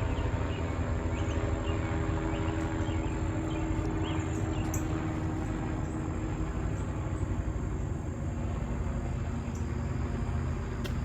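Medical helicopter flying overhead at a distance: a steady, low rotor-and-engine drone.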